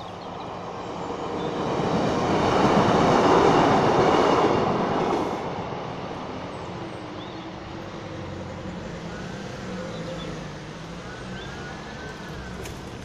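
Class 150 Sprinter diesel multiple unit passing over the level crossing. Its sound swells to a peak about three to four seconds in, then fades as it moves away.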